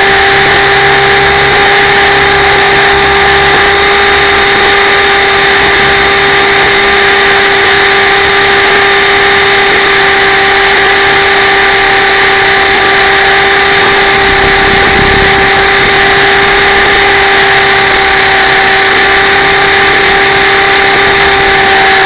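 Radio-controlled camera helicopter's motor and rotors whining steadily at one pitch, very loud and close as picked up by the camera it carries.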